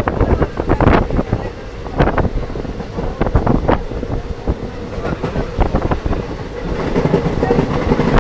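Passenger train running, heard from inside the carriage: a steady low rumble with irregular sharp clattering knocks from the wheels on the rails.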